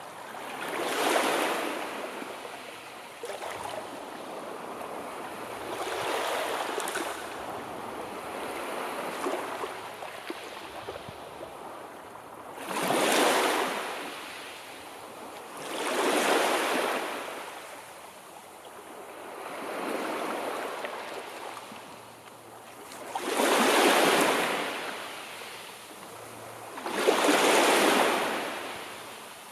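Sea waves washing in, each surge swelling and fading away, one about every three to four seconds.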